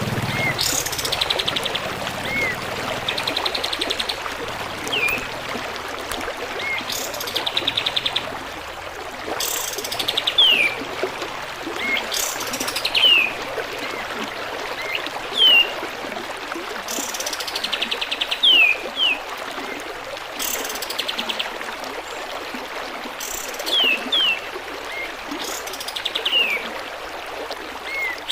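Pied triller (kapas tembak) song, repeated every few seconds: a fast rattling trill followed by sharp falling whistles, with short soft upslurred notes in between, over steady trickling water.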